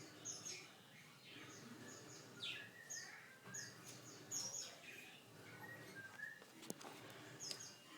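Domestic canary singing faintly in scattered short chirps and quick falling whistles, with a single sharp click about two-thirds of the way through.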